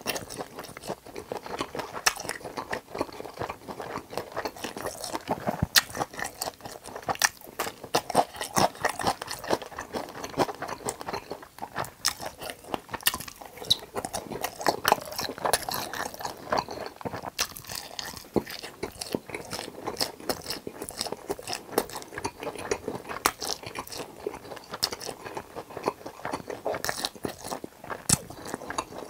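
Close-miked chewing and biting of crispy fried tangsuyuk pork topped with pizza cheese, with irregular sharp crunches.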